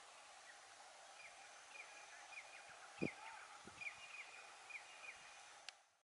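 A small bird calling a string of short, falling chirps, about two a second, over the faint steady hiss of open country. A dull low thump about three seconds in is the loudest moment.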